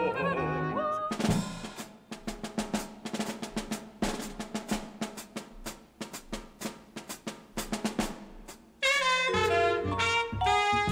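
Music: a jazz drum solo of rapid snare strikes and rolls. About nine seconds in, a jazz band with saxophone and brass comes in louder.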